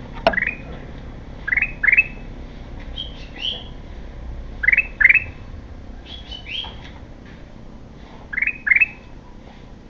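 Golden bulbul ('kutilang emas') calling: loud pairs of quick upslurred notes, repeated about every three seconds, with softer higher chirps in between.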